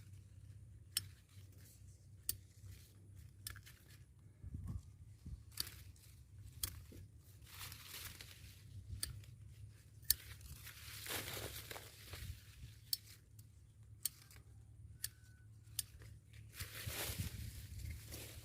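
Hand pruning of a young durian tree: sharp snips of pruning shears at irregular intervals, with leafy branches rustling and crackling as they are cut and pulled away, the longest rustles about halfway through and near the end.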